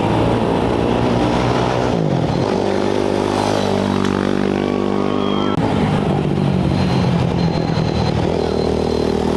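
Off-road race motorcycle engines running and revving, the pitch dipping about two seconds in and changing abruptly a little past halfway.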